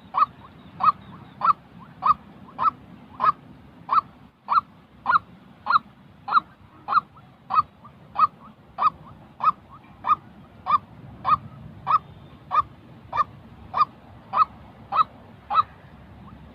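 White-breasted waterhen calling: one short pitched call repeated steadily, about one and a half times a second, stopping right at the end.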